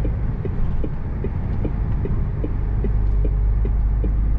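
HGV lorry engine running, heard from inside the cab, with the turn indicator ticking steadily about two and a half times a second.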